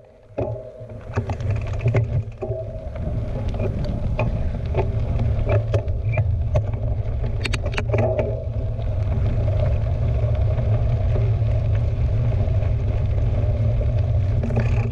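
Wind rumbling on a GoPro's microphone while a mountain bike is ridden, with scattered clicks and rattles from the bike in the first half.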